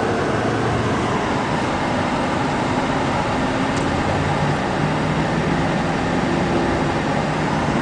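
Car driving on a snowy road: steady road and tyre noise under a low engine hum that shifts slightly in pitch.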